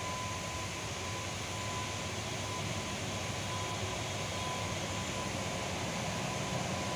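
Passenger train led by a WAP-5 electric locomotive running past: a steady rumble and hiss of the locomotive and coaches on the track, growing slightly louder, with a faint high tone that comes and goes.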